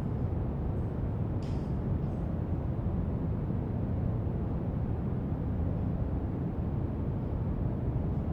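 Steady brown noise, a deep, even rumbling hiss, with a few faint marker strokes scratching on paper over it, the clearest about one and a half seconds in.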